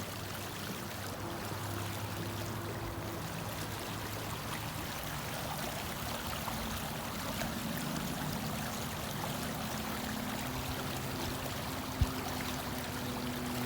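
Creek water flowing steadily, a continuous rushing babble. A single short knock about twelve seconds in.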